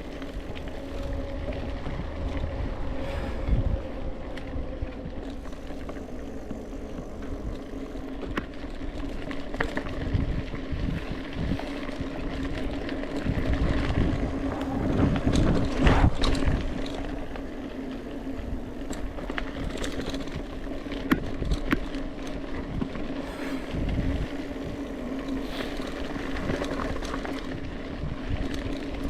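Mountain bike rolling along a trail: tyre noise and wind on the microphone, with a steady hum throughout that swells louder about halfway through.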